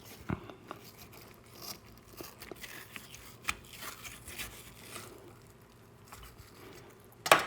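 Close-miked ASMR eating sounds: scattered soft clicks and small crunches and crackles, with one sharp, loud click near the end.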